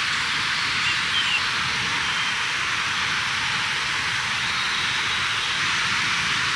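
Steady rushing hiss of a mountain stream, with a short high chirp about a second in.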